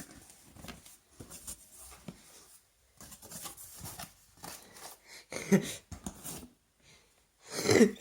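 A cardboard package being opened by hand: irregular scraping, tearing and rustling of cardboard and packing material, with louder handling noises about halfway through and near the end.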